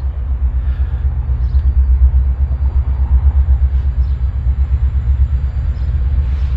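Diesel freight locomotive engine working under full power: a deep, steady rumble.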